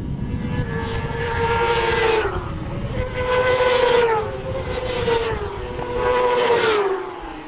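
Racing motorcycles passing at high revs one after another, about three of them, each engine note held high and then dropping in pitch as it goes by.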